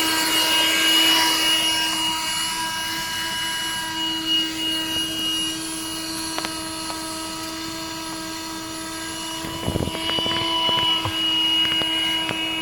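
Black & Decker 12-volt handheld car vacuum cleaner running steadily with its nozzle fitted: a motor whine over rushing air as it vacuums a car seat. There are a few short knocks about ten seconds in.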